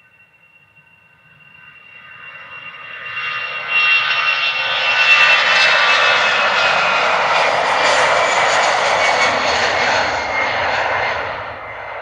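Airbus A320's CFM56 jet engines at takeoff power as it climbs out past: a jet roar that builds over the first few seconds, holds loud, then fades near the end, with a steady high whine running through it.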